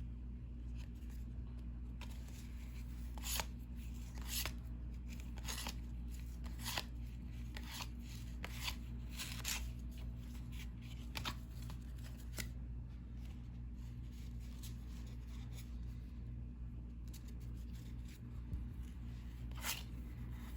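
1990-91 NBA Hoops cardboard trading cards being flipped through one at a time: short, irregular card-on-card slides and flicks, about one a second, growing sparser in the second half, over a steady low hum.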